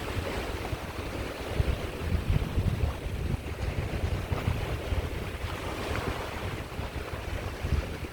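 Caspian Sea waves washing on the shore, a steady rushing surf, with wind buffeting the microphone as an uneven low rumble.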